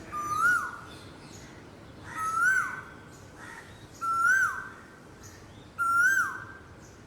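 Asian koel (koyal) calling four times, about two seconds apart: each call is one loud whistled note that rises and then drops off sharply at the end, the male's koo-oo call. Faint chirps of other small birds sound behind it.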